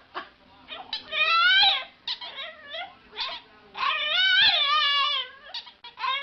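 A dog whining in long, wavering calls: one about a second in and a longer one about four seconds in, with short yips and whimpers between.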